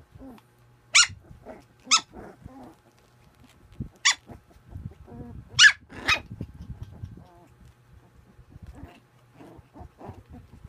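Puppy barking in play: five short, sharp yips, the last two close together about six seconds in, with softer growls and whimpers between them.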